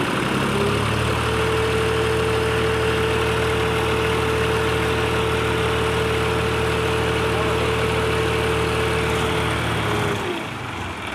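Diesel tractor engines running hard under heavy pulling load. The pitch climbs in the first second, holds steady, then falls away about ten seconds in as the engines ease off.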